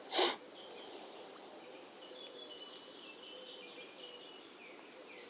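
A brief swish of noise right at the start, then birds singing faintly in high chirps and trills over a steady background hiss.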